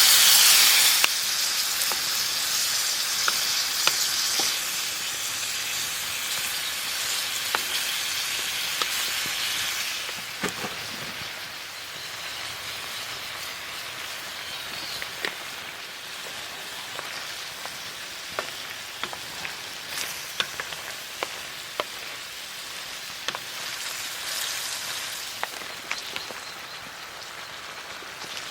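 Food sizzling in a pan over a campfire, loudest in the first second, then settling into a quieter sizzle with scattered sharp pops and crackles.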